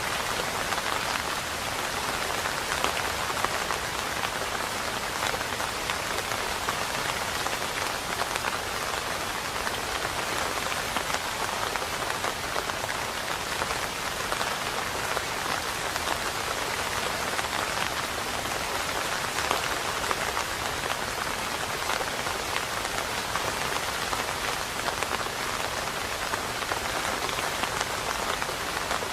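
Steady rain falling, a dense, even patter of drops with no thunder.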